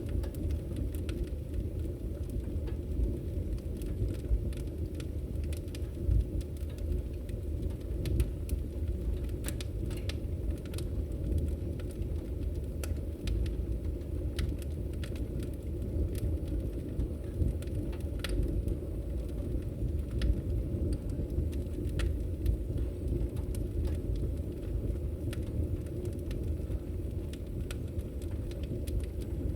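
Wood fire crackling in a fireplace: a steady low rush of flames with frequent sharp pops and snaps.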